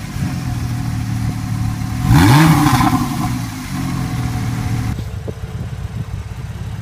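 Porsche 911 Carrera 4S's 3.8-litre flat-six boxer engine idling, with one quick throttle blip about two seconds in that rises and falls back to idle. For the last couple of seconds the sound is duller and a little quieter.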